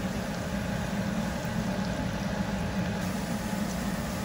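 Breaded chicken cutlets shallow-frying in a mix of olive and vegetable oil in a pan, the oil sizzling and bubbling steadily over a steady low hum.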